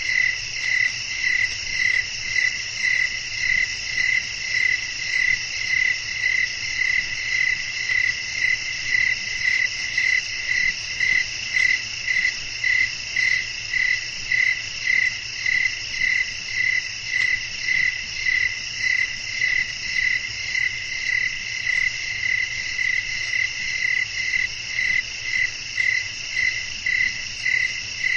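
Night chorus of crickets: one loud, even chirp repeating about three times every two seconds over a continuous high-pitched trill from other insects.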